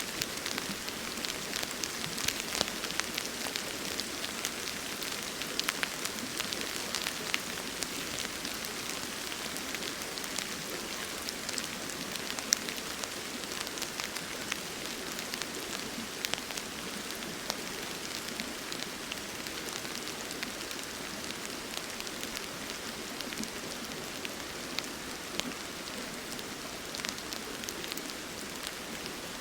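Steady rain falling, with many sharp drop ticks over a constant hiss, which may include the flowing river nearby.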